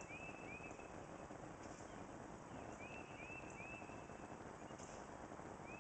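A songbird singing a phrase of three short, arched whistled notes, heard at the start and again about three seconds later, over a steady low background rumble.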